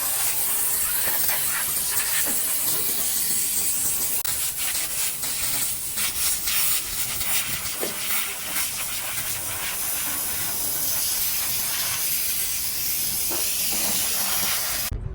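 Compressed air hissing from a compressor-fed spray nozzle as oil is sprayed onto engine parts. The hiss comes in uneven surges in the middle and cuts off suddenly near the end.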